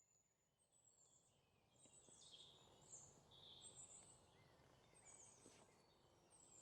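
Near silence with faint, high bird chirps scattered through it.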